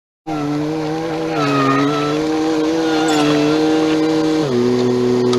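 An engine running steadily with a humming pitch that drops to a lower speed about four and a half seconds in.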